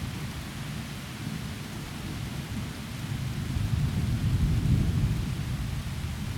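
Heavy rain falling through forest trees, with a low rolling thunder rumble underneath that swells about halfway through and then eases.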